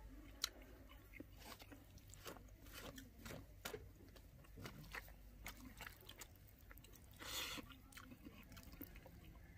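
Faint chewing and mouth clicks of someone eating fish curry and rice by hand, with a brief hiss about seven seconds in.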